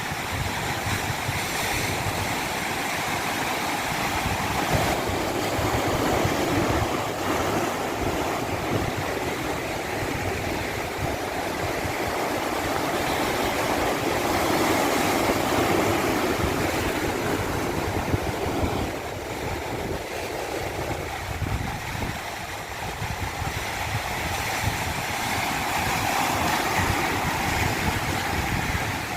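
A stream cascading over rocks: a steady rush of water that swells and eases slowly, dipping a little about two-thirds of the way through.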